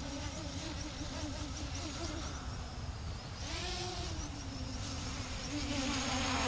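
CG035 quadcopter's brushless motors and propellers buzzing in flight. The pitch wavers up and down as the motors keep correcting an unstable hover, which the owner blames on a bad GPS module.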